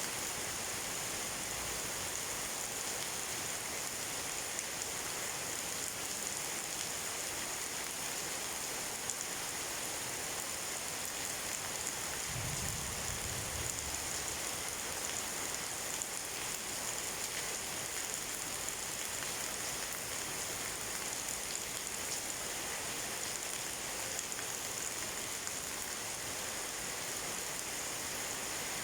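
Steady, even rainfall, with a brief, faint low rumble of distant thunder about halfway through.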